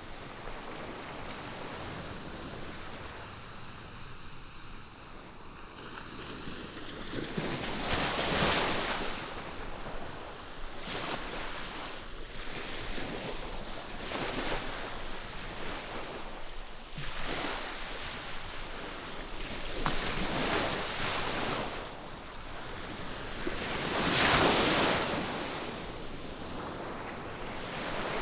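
Ocean surf: a steady wash of waves with a few louder swells as waves break and run out, the biggest about a third of the way in and again near the end.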